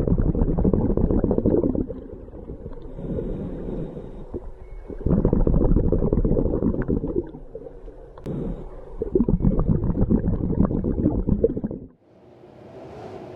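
Scuba diver's breathing underwater: three long bursts of exhaled bubbles from the regulator, with quieter breaths between. It cuts off suddenly near the end.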